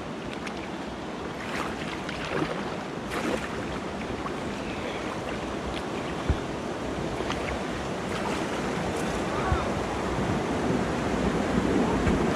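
Water rushing and splashing around a small canoe on a river, getting louder toward the end, with wind on the microphone and a few sharp knocks.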